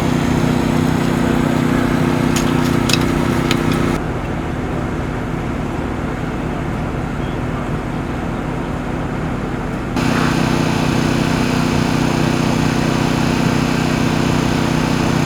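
A vehicle engine running steadily with a low hum, with a few sharp clicks about two to three seconds in; the sound drops and turns duller from about four seconds in until about ten seconds in.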